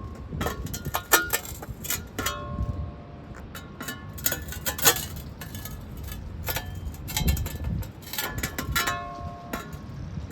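Pavers being handled and set, knocking and clinking against each other in an irregular string of sharp clinks, some with a brief ring.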